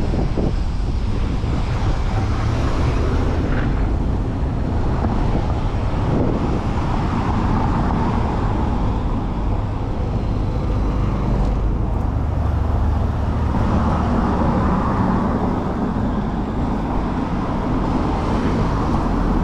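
Steady city road traffic heard from a moving bicycle, with wind rumbling on the microphone.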